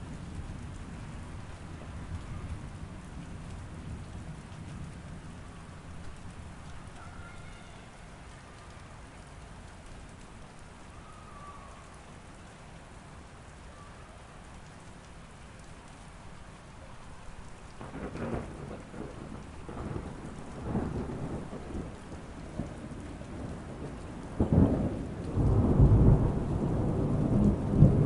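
Thunderstorm: steady rain falling throughout, with thunder crackling and rumbling from about two-thirds of the way in, then a loud thunderclap near the end that breaks suddenly and keeps rolling.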